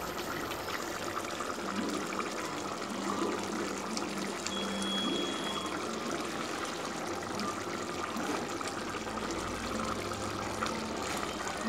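Chicken and tomato masala sizzling steadily as it fries in an open pressure cooker.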